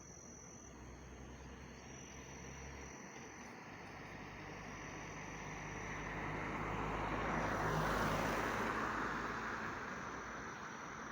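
A vehicle passing by: its road noise swells gradually to a peak about eight seconds in and then fades. Crickets chirp steadily under it.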